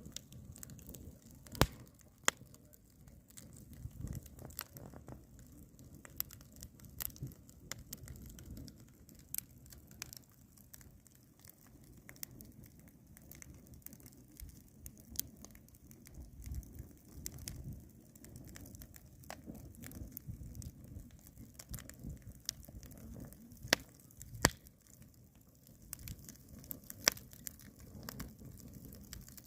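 Wood fire crackling, with irregular sharp pops and snaps over a low steady rumble of the burning fire.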